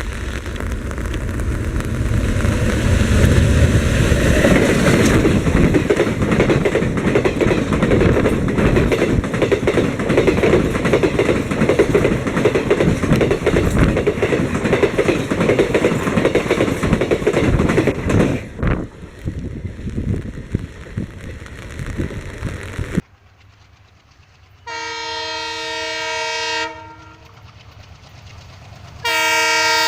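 A diesel-hauled Indian Railways express passing close at speed, with a heavy rumble and wheel noise on the rails that fades after about eighteen seconds. Then the WDM3A diesel locomotive's multi-tone air horn sounds, a blast of about two seconds followed by another starting near the end.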